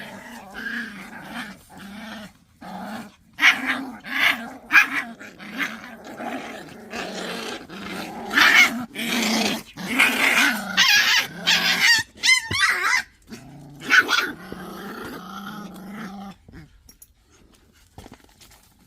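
Pungsan dogs growling at each other in a scuffle over rank, in repeated growls with a wavering high yelp about twelve seconds in. The growling stops at about sixteen seconds.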